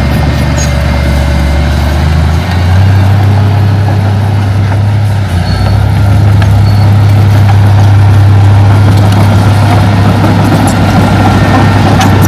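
Heavy-equipment diesel engine running steadily; its low note steps up in pitch about two seconds in and gets louder around halfway, as the engine picks up speed or load.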